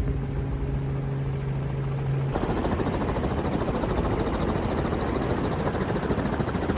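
Helicopter running, its rotor giving a fast, even chop. A steady low hum for the first two seconds changes abruptly into a rougher, fuller noise.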